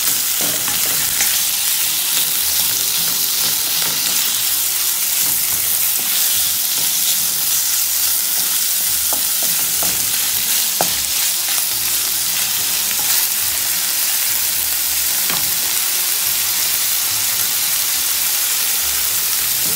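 Diced chicken breast and onions sizzling steadily in hot oil in a pan, stirred with a wooden spatula that gives a few short clicks against the pan.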